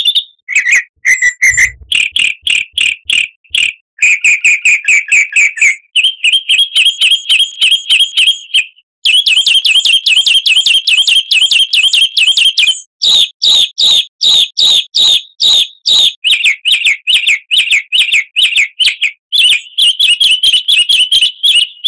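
Songbird singing: long runs of rapid, high repeated chirps, in phrases broken by short pauses, stopping abruptly at the end.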